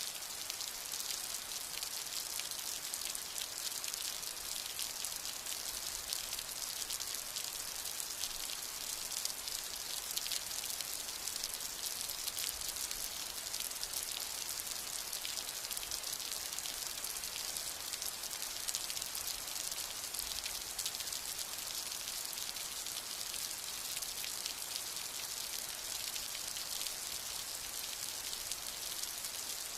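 Steady heavy rain: a dense, even patter of raindrops falling on surfaces, with no thunder in this stretch.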